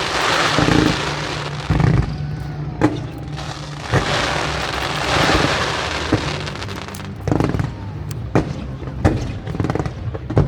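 Aerial fireworks shells bursting overhead: a string of sharp bangs about a second apart, with two long stretches of dense crackling from glitter effects.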